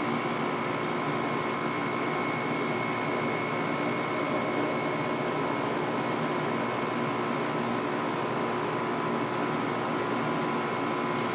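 8000 BTU LG window air conditioner running on cool with the fan on low and its LG rotary compressor running: a steady rush of air with a few high, constant whining tones over it.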